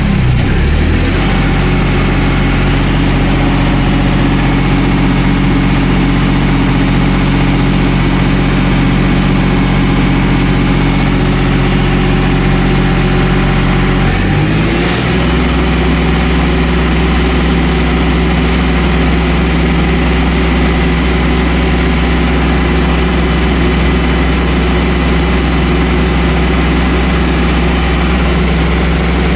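John Deere 5305 tractor's three-cylinder diesel engine idling steadily. About halfway through its note changes and settles lower and deeper.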